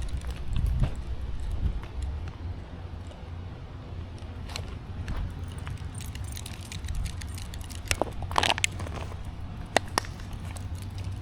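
Footsteps on a woodland trail: scattered light crackles and clicks, with a small cluster about eight seconds in and one sharp click just before the end, over a steady low rumble.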